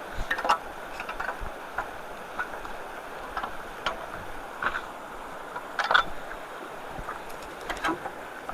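Water rushing steadily through a cleared road culvert, with irregular short splashes and knocks, the sharpest about half a second in and around five to six seconds in.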